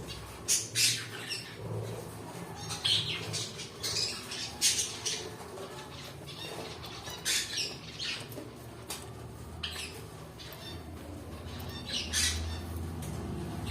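Pet cockatiels squawking in many short, sharp calls, spaced irregularly through the stretch.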